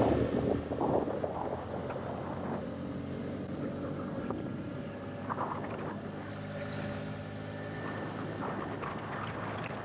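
Motorcycle engine running steadily while riding, with wind and road noise; a louder rush of wind dies away in the first second.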